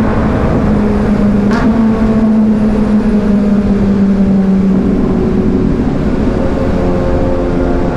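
A 2022 Kawasaki Ninja 1000SX inline-four through an AR aftermarket exhaust runs at a steady cruise, its note sinking slowly as the bike eases off and rising a little near the end. Wind rush sits under it. A short sharp click comes about a second and a half in.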